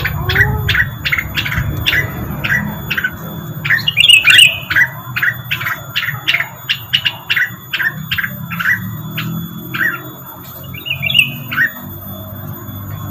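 Rengganis bird lure recording: a fast, even run of short, sharp down-slurred chirps, about two to three a second, with a louder, harsher burst about four seconds in and another near the end, over a steady low hum.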